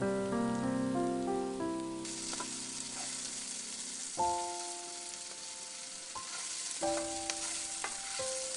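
Food frying in a hot pan, a steady sizzle that starts suddenly about two seconds in, over background music.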